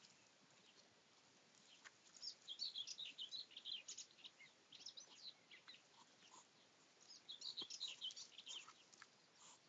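Faint songbird song: two quick, high, twittering phrases, one a couple of seconds in and another near the end.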